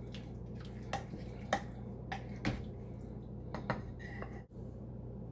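A kitchen utensil clinks and knocks against a cooking pot several times, in separate light taps, as the soup is stirred and tasted for seasoning. A steady low hum runs underneath.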